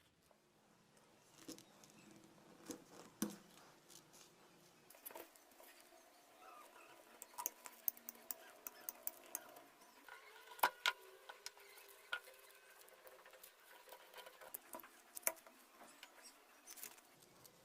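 Irregular light taps, clicks and rustling of craft materials being handled and worked by hand close to the microphone.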